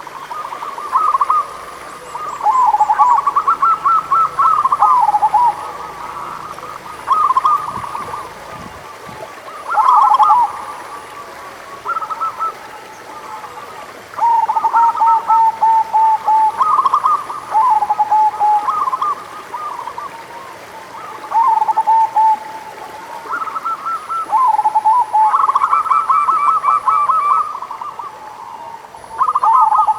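Zebra doves (perkutut) cooing: phrase after phrase of quick stuttering coos, with some phrases overlapping one another.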